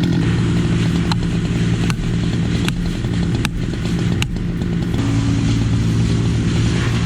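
An engine running at a steady speed throughout, with a sharp knock about every 0.8 seconds, five in all, in the first half.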